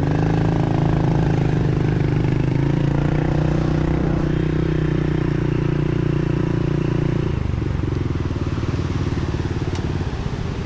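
Small pit bike engine running at a steady throttle, easing off and dropping in pitch about seven seconds in.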